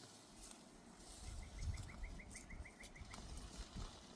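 A bird calling a quick run of about a dozen short, evenly spaced chirps, starting about a second in and lasting about two seconds, over low outdoor rumble.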